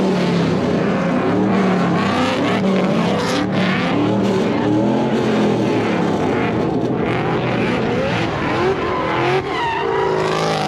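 Truck engines revving hard, their pitch rising and falling repeatedly at high rpm, over a steady noisy hiss like spinning tires.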